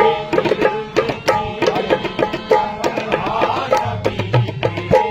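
Qawwali accompaniment between sung lines: a dholak beats a quick, busy rhythm of sharp strokes under steady held notes from a harmonium.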